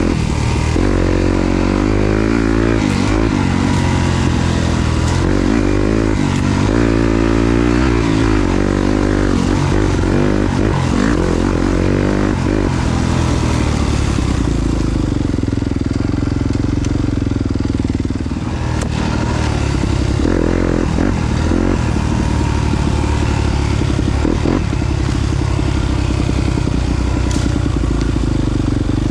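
Yamaha YZ250FX four-stroke single-cylinder dirt bike engine being ridden, revving up and down with quick throttle changes for the first dozen seconds, then holding a steadier pitch with a short rev about two-thirds through. Chassis and ground clatter under the engine.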